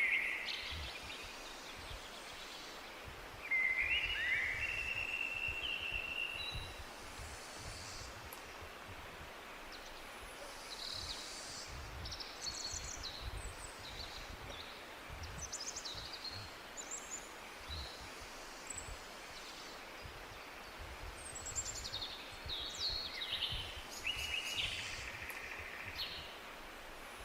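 Forest birdsong: several birds chirping and trilling in short high phrases, with one louder, lower call about four seconds in and a busier spell of chirps near the end, over a faint low rumble.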